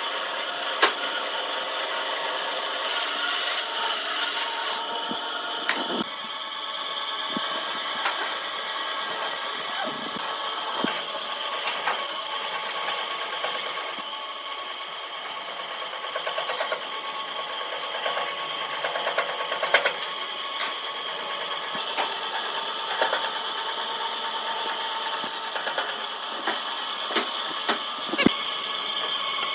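Power tool running steadily on wood, with a high whine and scattered sharp knocks.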